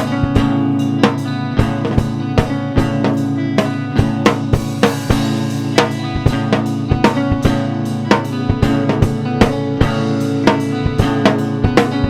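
Band music with no singing: a drum kit plays a busy, steady beat over held low notes.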